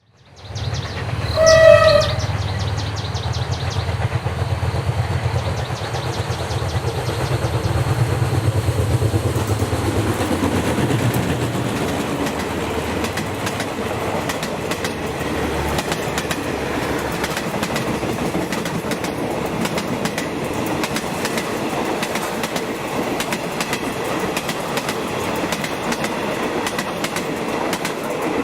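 Diesel rail vehicle passing close: a short horn blast about two seconds in, a low diesel engine rumble that eases off after about ten to fifteen seconds, then a steady rumble and clatter of wheels on the rails.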